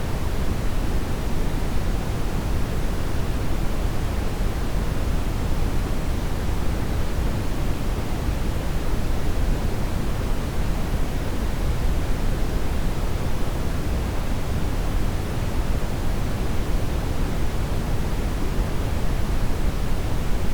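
Steady brown noise: an even, unchanging rush of noise, strongest in the low end and falling away toward the highs.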